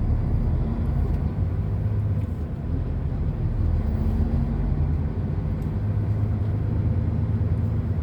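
Heavy truck's engine running at low speed, heard from inside the cab: a steady low rumble.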